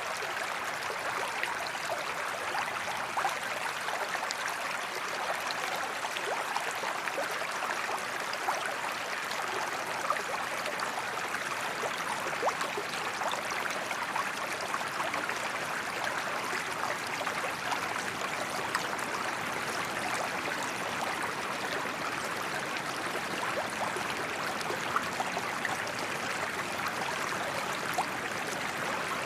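Gently flowing waterfall water: an even, steady rush with small splashes and droplets scattered through it.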